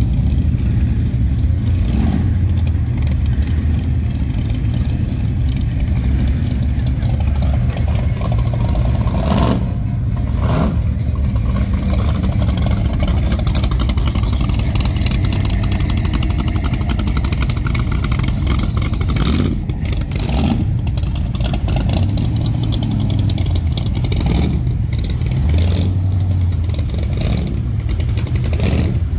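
Classic car engines running as cars drive by, a steady low drone with a few short louder surges about ten, twenty and twenty-five seconds in.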